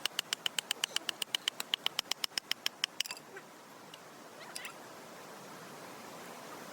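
A small animal's rapid chirping call, a quick regular run of about seven sharp notes a second, stopping about three seconds in, then one short falling note a little later. Underneath, a steady rushing hiss of a mountain stream.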